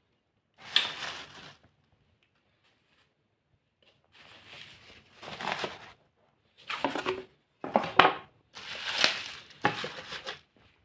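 Handling noise in a small room: about five separate bursts of rustling and clattering, with silent gaps between them.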